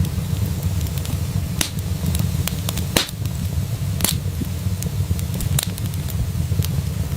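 Wood fire crackling in a fireplace: scattered sharp pops and snaps, the clearest about three and four seconds in, over a steady low rumble.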